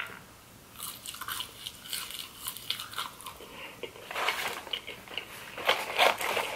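A person chewing French fries dipped in cheese sauce with wet, crunching mouth sounds, growing louder from about four seconds in.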